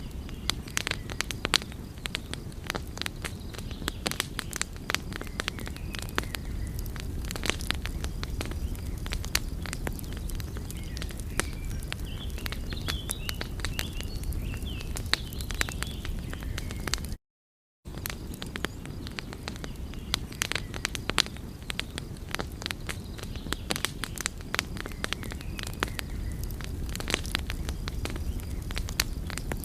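Wood fire crackling: a steady low rumble of burning logs with frequent, irregular sharp pops and snaps. The sound cuts out completely for about half a second a little past the middle.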